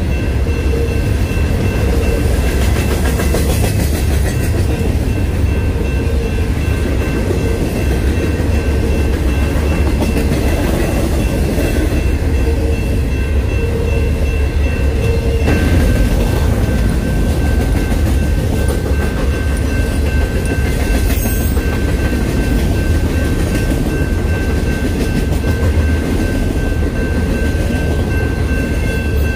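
Double-stacked intermodal freight train's container well cars rolling past at close range: a loud, steady rumble of steel wheels on rail, with two thin, steady high-pitched tones ringing above it.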